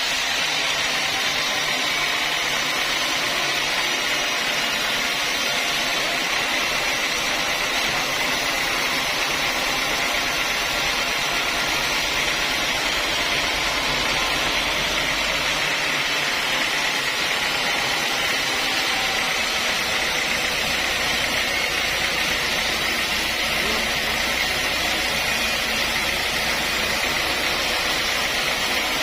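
Sawmill saw cutting a mahogany log, a steady, even machine noise.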